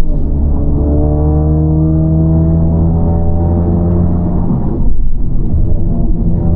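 Honda Civic FL5 Type R's turbocharged 2.0-litre four-cylinder heard from inside the cabin through an HKS Legamax exhaust with aftermarket downpipe, its pitch rising slowly as the car pulls, then turning rougher and louder about five seconds in.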